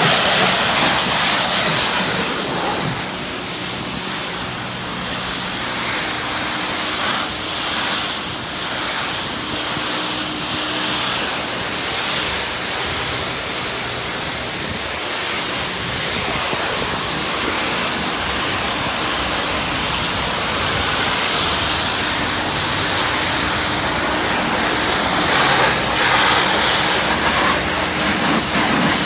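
High-pressure wash wand spraying steadily onto a car at a self-service car wash, a loud continuous hiss with the low, steady hum of the pump machinery underneath.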